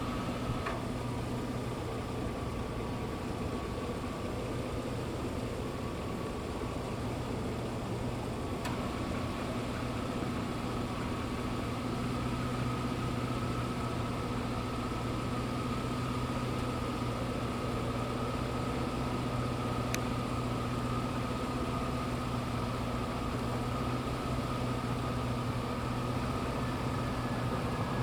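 Distant jet aircraft engines running with a steady low hum and a thin whine, slowly growing louder toward the end.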